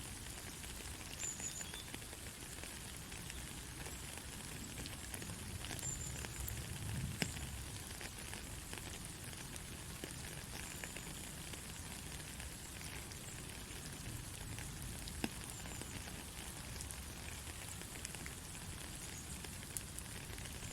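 Gentle rain falling steadily, with scattered individual drops ticking sharply.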